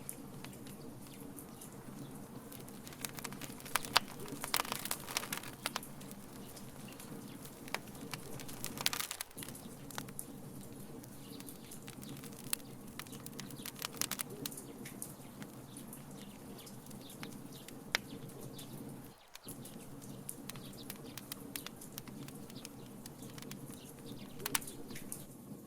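Wood fire crackling in a fire pit: irregular sharp pops and snaps over a steady low rumble, with thicker runs of crackles in bunches.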